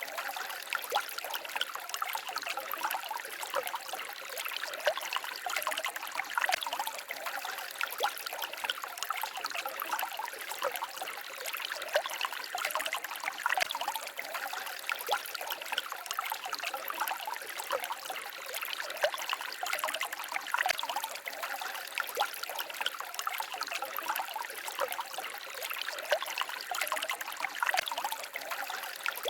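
Small forest stream babbling and trickling over rocks, a steady, busy splashing with many small bubbling flickers.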